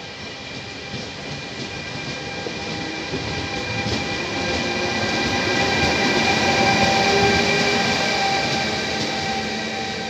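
Intercity passenger train rolling past, a steady rumble of wheels on rails with several steady whining tones over it. The sound grows louder toward the last few seconds as its E464 electric locomotive at the tail comes by.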